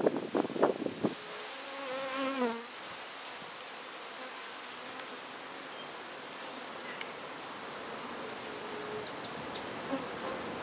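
Honey bees from an exposed hive buzzing steadily, with one bee droning close past the microphone, its pitch wavering, about two seconds in. A few sharp rustling knocks in the first second.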